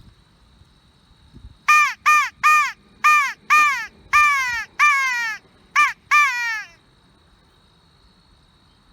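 A hand-blown DIY crow call sounding a series of nine loud caws, each one falling in pitch, the last few drawn out longer. The caller is trying to bring in a crow.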